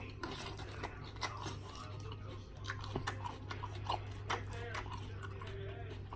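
Close-miked wet chewing and lip-smacking: a person eating, with many short irregular clicks and squelches over a steady low hum.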